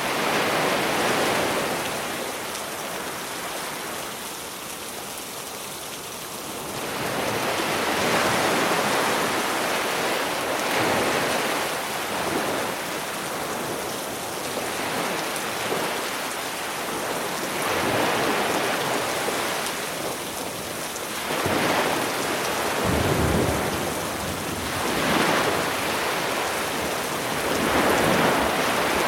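Sea waves breaking and washing up on a beach, surging every few seconds, one with a deeper low rumble about two-thirds of the way through, under a steady hiss of rain.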